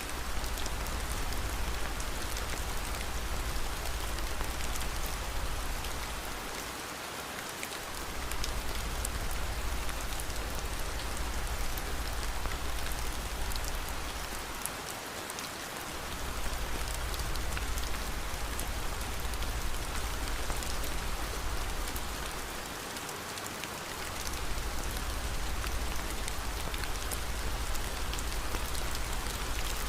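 Steady rain falling, an even hiss dotted with fine drop ticks, over a low rumble that drops out briefly about every eight seconds.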